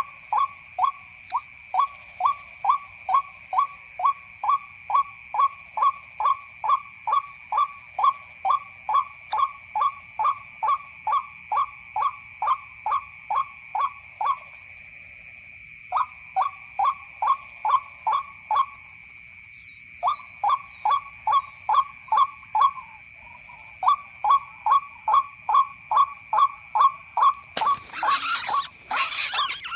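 White-breasted waterhen 'kwak' calls in a fast, very even series of about two a second, breaking off briefly three times. A steady high ringing runs underneath, and a short loud rustle comes near the end.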